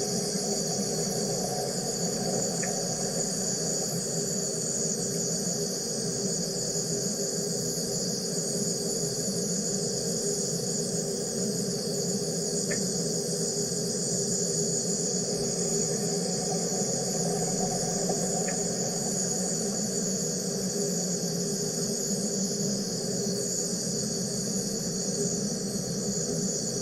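Wire EDM machine running: a steady, high-pitched buzzing hiss over a steady lower machine hum, with three faint ticks.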